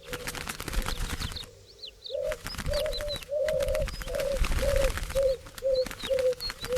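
Doves cooing: a run of about nine short, low coos in a steady rhythm from about two seconds in. Under them runs a dense flutter of wings, with a few brief high chirps.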